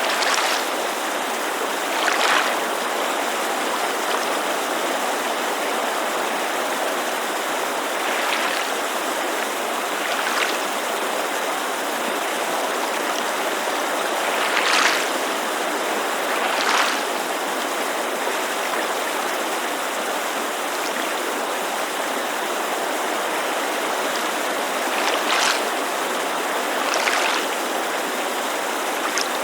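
Steady rushing of a mountain creek, with small waves lapping at a lake shore. The laps are soft splashes every few seconds, often in pairs about two seconds apart.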